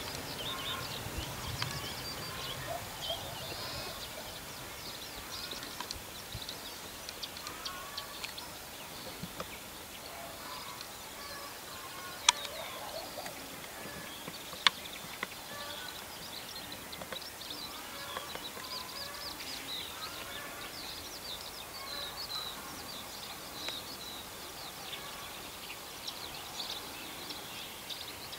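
Birds singing and chirping in many short, overlapping calls, with two sharp clicks about twelve seconds in and again two seconds later.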